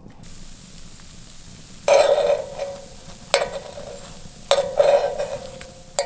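A metal utensil knocking and scraping against a cast iron skillet four times, each knock ringing briefly, over a faint sizzle of samosas toasting in the pan.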